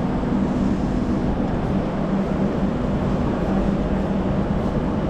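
Steady low rumble and hum of a train standing at a station platform, with no sudden events.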